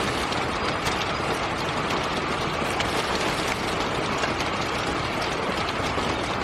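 Steady rain falling, with a dense run of small ticks from drops striking nearby surfaces.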